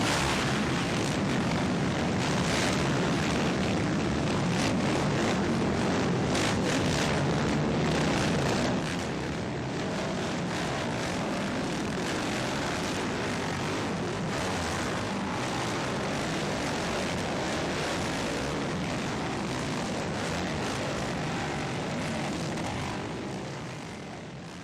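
Four-stroke motocross bike engines running hard during a race, a dense steady drone; it drops a little in level about nine seconds in and fades out near the end.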